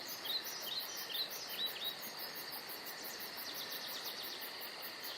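Birds chirping in a quick run of short calls in the first two seconds, with fainter chirps later, over a steady fast high pulsing of insects and a soft background hiss.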